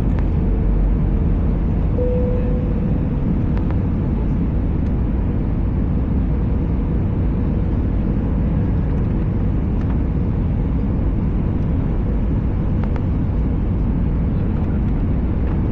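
Steady cabin noise inside an Airbus A320 in flight: engine and airflow noise as an even low rumble, with a faint steady tone running through it that swells briefly about two seconds in.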